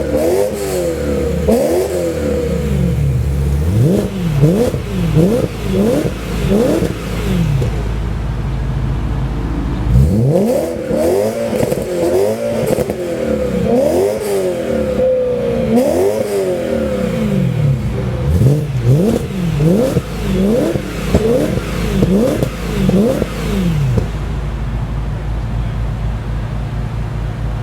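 BMW M3 engine breathing through an Akrapovic exhaust, blipped again and again from idle in quick rev-ups that rise and fall, settling back to a steady idle briefly about a third of the way in and again near the end.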